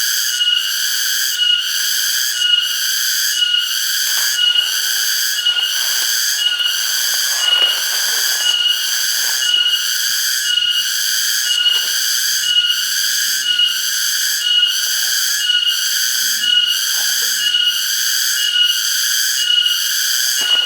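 Cicadas singing loudly and continuously, a shrill buzzing song that pulses about twice a second without a break. Faint lower rustles and knocks come and go beneath it.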